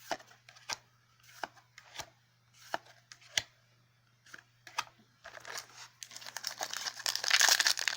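Trading cards set down one at a time with sharp taps, about one every three quarters of a second, then a foil booster pack crinkling as it is torn open, the crackle growing loud about two thirds of the way in.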